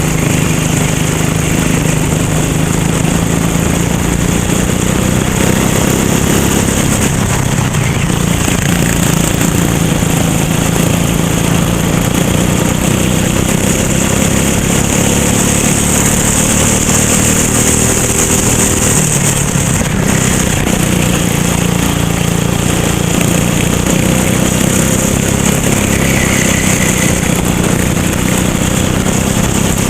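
Racing kart engine running hard throughout, its pitch dropping and rising again as it slows for corners and accelerates out, with a steady rushing hiss over it.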